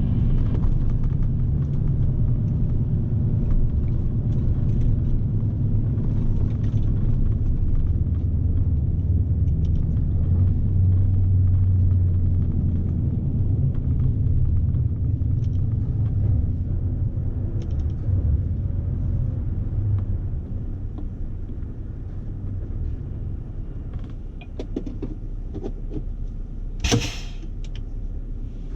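Scania S520 truck's V8 diesel engine running steadily with a low drone, heard from inside the cab, while the truck pulls about 44 tonnes. The drone eases off about two-thirds of the way through. A single short, sharp noise comes near the end.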